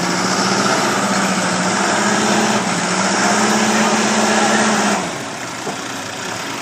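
Engine running hard under load, its pitch rising slightly, then dropping back and easing off about five seconds in.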